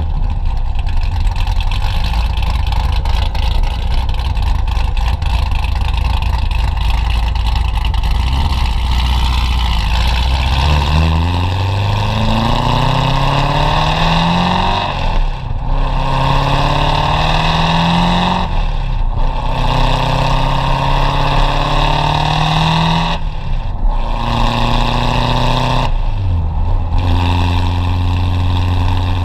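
Supercharged C7 Corvette's 6.2-litre LT1 V8, breathing through catless long-tube headers and an X-pipe, running steadily at low revs, then from about ten seconds in accelerating hard up through the gears. The pitch rises with a brief break at each shift of the manual gearbox, and the engine settles into a steady cruise near the end.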